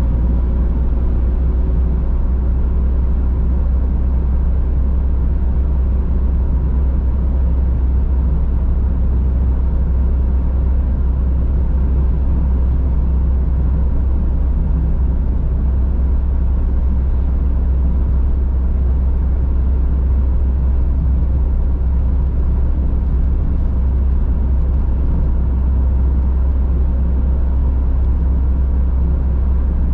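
Car driving at a steady speed: a constant low rumble of engine and tyres on the road, with no change in pace.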